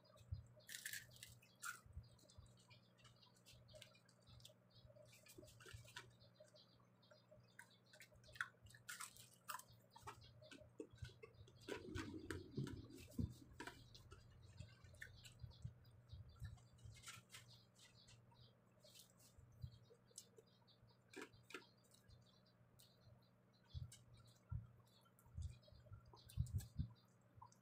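Soft chewing and mouth smacking from someone eating rice by hand, with many small scattered clicks and taps, over a faint steady low hum.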